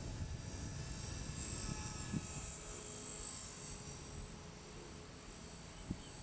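Electric T-Rex 450 Pro RC helicopter in flight: a steady high-pitched whine from its motor and rotors that slowly grows quieter, over a low wind rumble on the microphone. Two brief knocks come about two seconds in and near the end.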